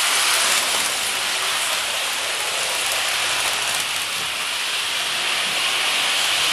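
OO gauge model train running fast around the track: a steady rushing whirr of the small motor and wheels on rail.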